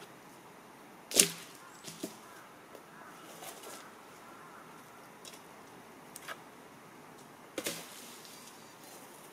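Firewood being split: two hard chopping strikes about six seconds apart, the first the louder, with a few light knocks of wood between them.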